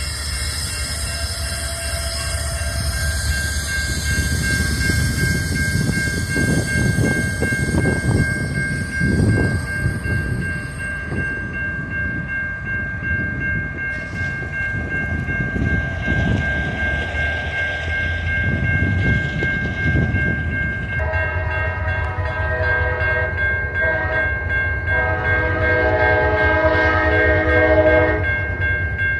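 Train passing with diesel locomotive rumble that swells and fades, under a thin steady high-pitched squeal. About three quarters of the way through, the locomotive's multi-chime air horn sounds in a long blast, a short one, and another long one.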